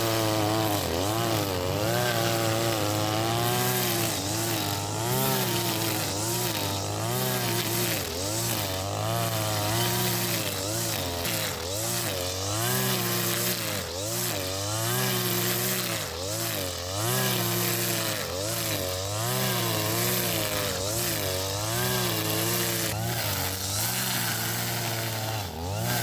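Husqvarna 542RBS brush cutter's 42cc two-stroke engine running at high speed while cutting grass with nylon line, its pitch rising and dipping about once a second as it works.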